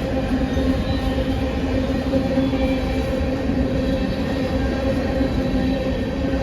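Train running: a steady rumble with a constant engine drone.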